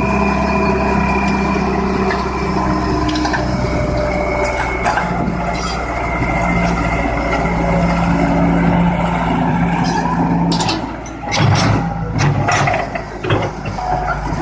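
Excavator engine running steadily under load for about ten seconds, then a run of irregular clanks and knocks near the end.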